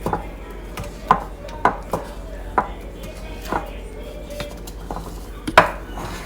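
A utensil knocking and clinking against a mixing bowl while stiff macaron batter is stirred: irregular sharp knocks, some with a brief ring from the bowl, and the loudest one near the end.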